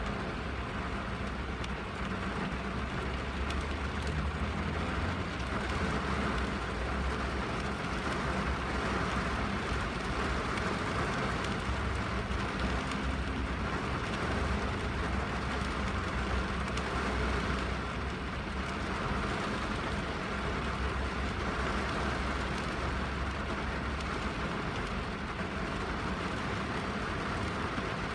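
Steady rain falling on a car's roof and windows, heard from inside the cabin, with a low rumble underneath.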